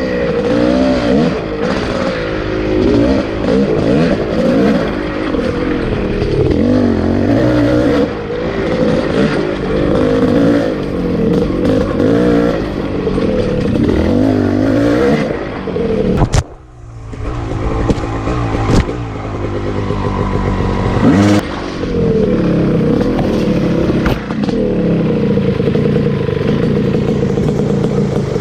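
Two-stroke dirt bike engine revving up and down through the gears as the bike rides over rough trail, with occasional knocks. About sixteen seconds in the engine note cuts back sharply for a moment, then builds again.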